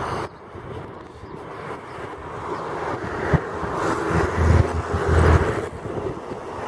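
Strong wind gusting across the microphone. The wind swells into a heavy low buffeting rumble about four seconds in, with a single short knock just before it.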